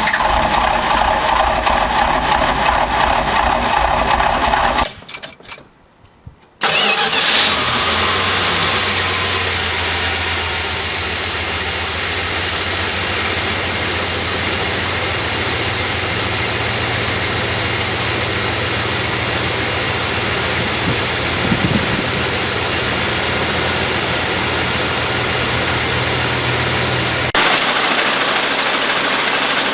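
Dodge car engine starting: after a moment of near silence it fires up suddenly and loudly about six seconds in, then settles into a steady idle. Other engine running sounds come before and after, switching abruptly about five seconds in and again near the end.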